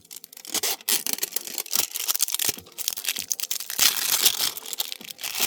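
Crinkling and tearing of a foil trading-card booster pack being opened by hand, a quick run of rustling scrapes as the wrapper and cards are handled.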